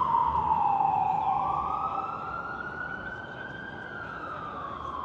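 Emergency vehicle siren in a slow wail, its pitch falling, climbing for about three seconds, then falling again.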